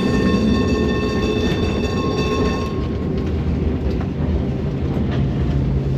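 Electric tram running on its rails, with a rumble and occasional clicks from the track. A steady high whine runs over it and stops about three seconds in; a low hum comes in near the end.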